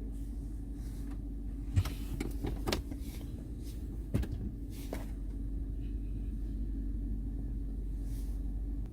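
2017 Ram 2500 Power Wagon's 6.4-litre Hemi V8 idling, heard inside the cab as a steady low hum, with four sharp clicks between about two and five seconds in.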